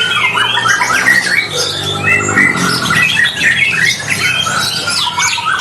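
Several caged white-rumped shamas (murai batu) singing at once in competition, a dense overlapping chatter of quick whistled and rattling notes. A low hum is also heard briefly about a second and a half in.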